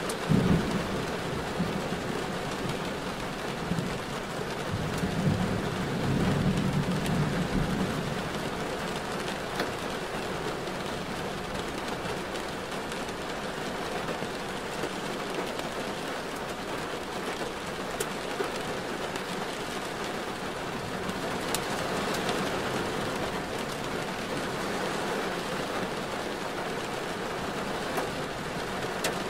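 Steady rain falling on a car as it drives through a downpour, with a few sharp ticks of drops. A deep rumble swells about half a second in and again for a few seconds a little later.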